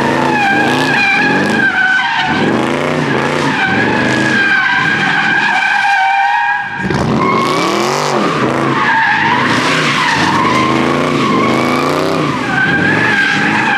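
A car doing a burnout: tyres squealing continuously while the engine revs hard, its pitch rising and falling. The revs drop briefly about seven seconds in, then climb again.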